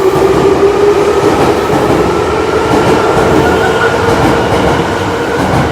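Sakaisuji Line subway train running loudly with its rolling rumble and a motor whine that rises slowly in pitch as it gathers speed.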